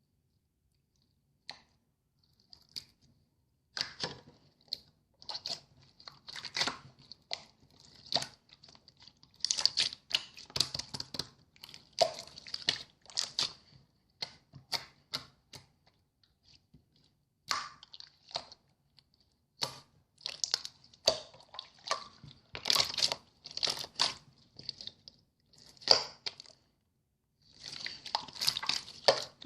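Clear slime with shell-shaped charms being squished and poked by hand: runs of small wet clicks, crackles and pops, with a couple of short pauses in the handling.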